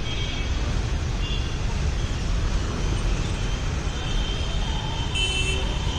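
Steady street traffic noise, with faint high tones of horns or voices coming and going.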